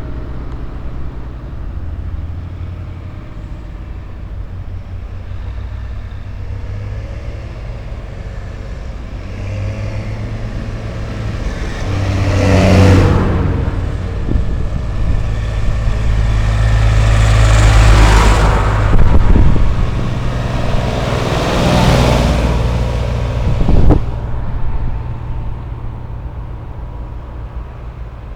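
Motor vehicle engines running steadily, with three vehicles passing close by, each swelling louder and fading, from about the middle of the stretch onward. A sharp click sounds near the end.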